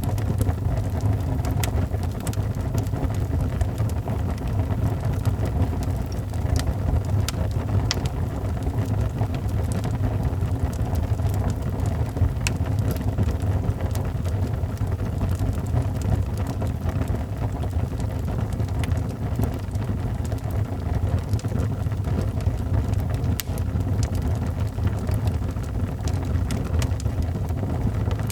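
Wood fire burning in a fireplace: a steady low rumble with sharp crackles popping at irregular moments.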